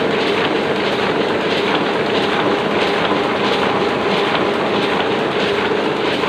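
Oliver printing press running normally: a steady mechanical clatter that repeats evenly over a constant hum.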